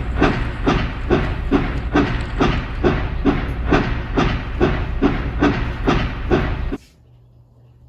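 Steam locomotive sound effect: steady, even chuffing at about two and a half puffs a second over a low running rumble, cutting off suddenly near the end.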